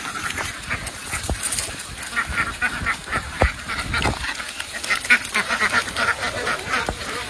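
A large flock of domestic ducks quacking, many short calls overlapping in a continuous din, with a couple of dull thumps early on.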